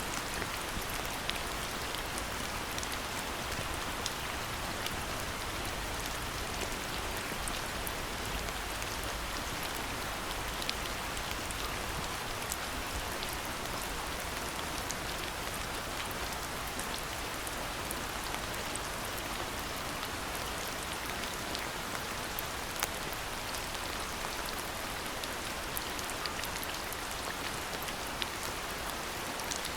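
Steady rain falling, an even hiss with scattered sharp drip ticks through it.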